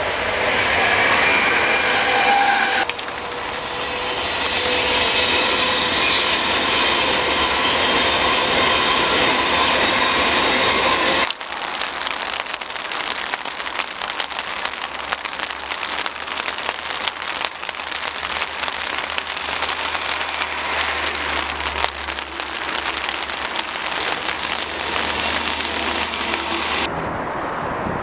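Trains passing beside an electrified main line, in several cut-together pieces: a Royal Mail Class 325 electric multiple unit going by with steady tones, then a louder rushing pass. From about eleven seconds in, rain taps on an umbrella over the low hum of a distant train.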